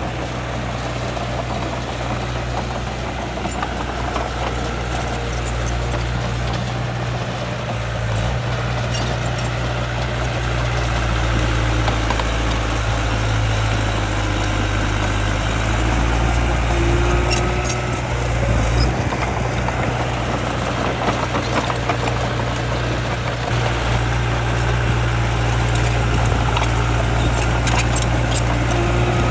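Diesel engine of heavy earthmoving machinery running steadily with a deep, even hum, with scattered light clicks and rattles of metal over it.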